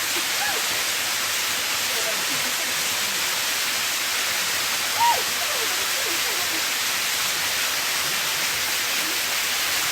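Steady rushing of a waterfall, with faint voices and a short high-pitched call about halfway through.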